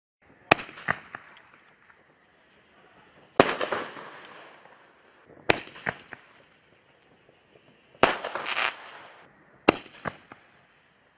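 Ghost Killer artillery shells (canister shells) fired one at a time: about five sharp, loud reports roughly every two seconds, each trailed by smaller cracks and an echoing tail.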